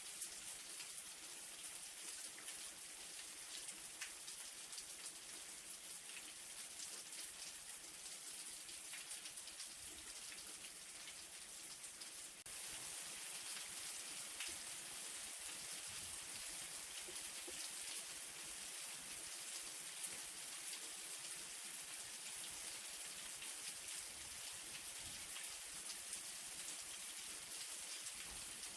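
Light rain falling steadily: a soft high hiss dotted with many small individual drips. The level steps up slightly about twelve seconds in.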